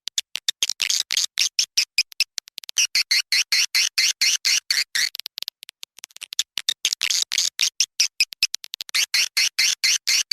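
Swiftlet lure-call recording (edible-nest swiftlet twittering) played back: a fast, chattering train of short high chirps and clicks in runs, with brief breaks about two and a half seconds in and around six seconds in. It is the kind of call played to draw swiftlets into a nesting house.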